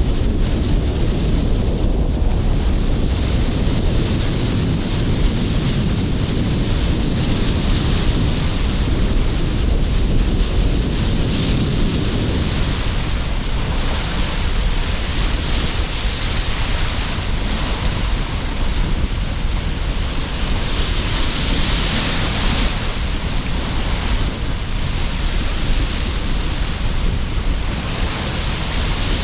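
Sea surf breaking and washing in over a constant rumble of strong wind, with waves of hiss that swell and fade every few seconds.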